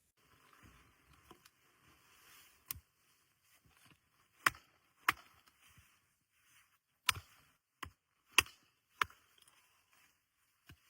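Wood being chopped with a hand tool: about eight sharp blows at irregular intervals, over faint rustling.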